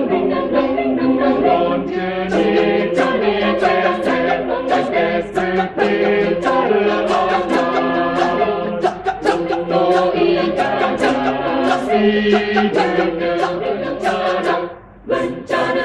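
A choir singing in several-part harmony, apparently a cappella. The singing breaks off about a second before the end.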